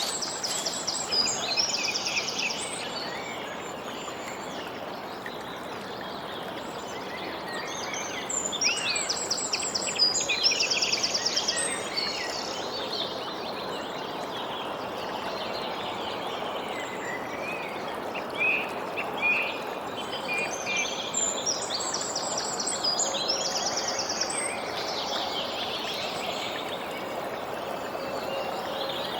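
A songbird sings a short phrase ending in a fast trill three times, roughly ten seconds apart, with scattered chirps between. Under it runs a steady, even background hiss.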